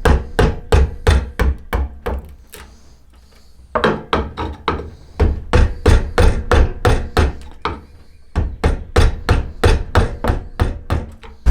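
Quick repeated blows of a hand tool on yew wood, about three a second, in three runs with short pauses about two and eight seconds in.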